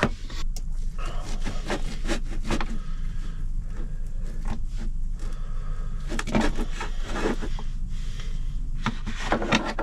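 Knife and fork scraping and clinking in a cast iron skillet, cutting into a steak, over a steady low hum.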